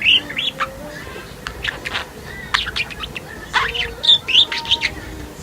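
Female budgerigar warbling: a rapid, irregular run of short chirps, clicks and squeaky pitch glides.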